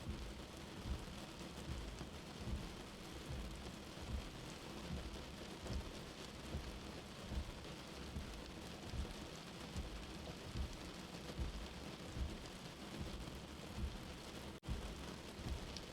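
Steady rain with a soft, slow heartbeat thumping low underneath, about one beat every second and a half. The sound drops out for an instant near the end.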